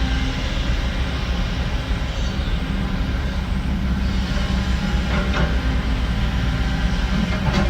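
Heavy diesel construction machinery running steadily, with a couple of short scraping clanks about five seconds in and near the end.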